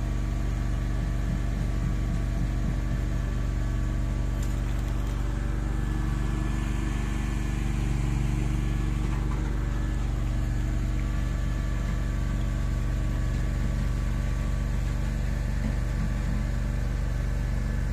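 Engine-driven machinery running steadily at a constant speed, with a slight swell about eight seconds in.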